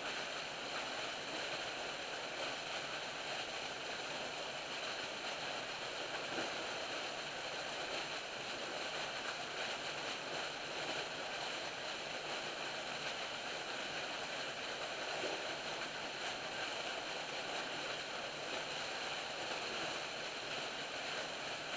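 Steady outdoor ambience: an even, unbroken hiss with no distinct events.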